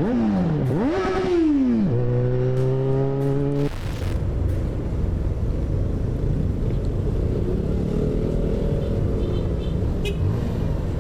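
Motorcycle engine revving, its pitch falling, rising and falling again, then holding a steady note for about two seconds before giving way to a steady low rumble of wind and road noise at speed.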